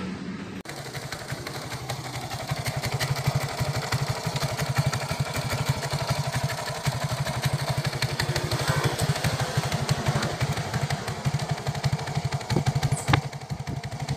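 Motorcycle engine running at idle, a rapid steady pulsing from the exhaust, with a few sharp clicks near the end.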